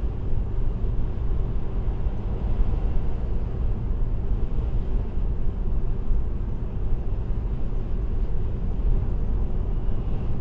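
Steady low rumble of road and engine noise from a car cruising at a constant speed on an expressway, heard from inside the car.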